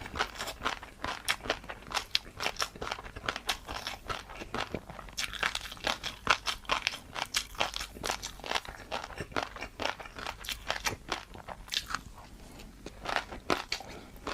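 Close-miked chewing of crisp, crunchy food: rapid sharp crunches several times a second, easing off briefly about twelve seconds in before resuming.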